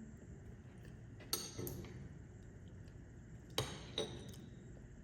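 Kitchen dishes and utensils clinking: a couple of sharp clinks about a second in and two more later, the last ringing briefly.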